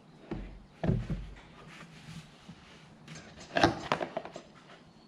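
A few clunks and knocks: two dull ones about half a second apart near the start, then a quick cluster of sharper knocks about three and a half seconds in.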